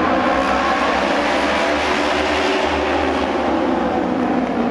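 Engines of auto race motorcycles running loud and steady, several stacked engine tones over a dense noise.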